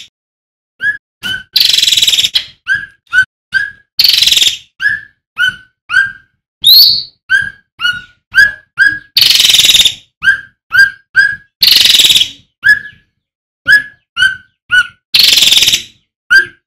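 Male cucak ranting (cucak rante) calling loudly: short whistled notes repeated about twice a second, broken every few seconds by a harsh, rasping call about a second long, with one rising whistled note midway.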